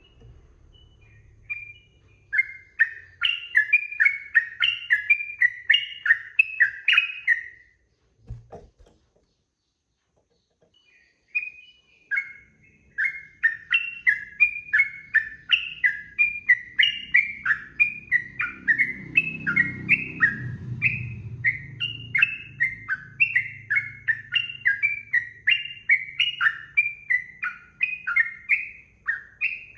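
Sooty-headed bulbul (trucukan) singing a long, fast run of repeated chattering phrases, about two to three a second. The song breaks off for a few seconds partway through, then resumes and continues steadily.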